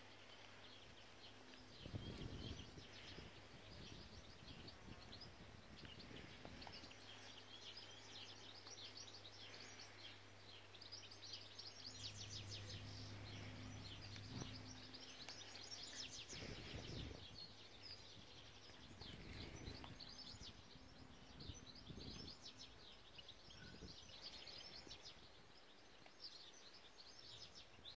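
Faint songbirds chirping and twittering in quick high runs throughout, over a low steady hum. A few low bumps come about two seconds in and again around seventeen and twenty seconds.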